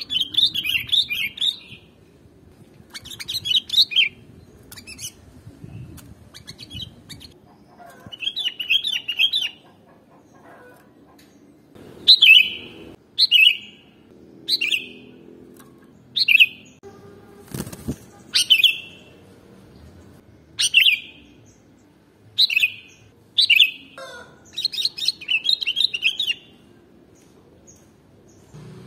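Sooty-headed bulbul (kutilang) calling: short bubbly chirping phrases alternating with single sharp down-slurred notes, repeated every second or two.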